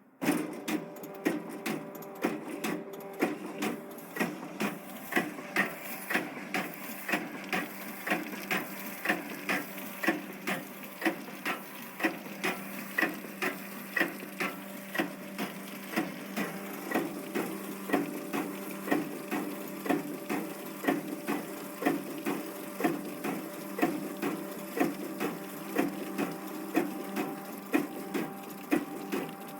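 Ruhle PR15 meat and poultry brine injector running: its needle head cycling with an even, repeating knock, somewhat under two strokes a second, over a steady machine hum.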